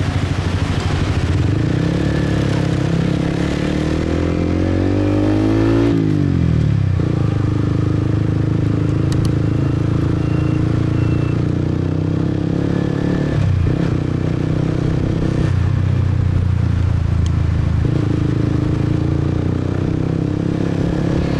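Motorbike engine heard from the rider's seat, rising in pitch as it accelerates, then dropping sharply about six seconds in as the throttle comes off, and running at a steady cruise after that, with a brief dip about halfway through.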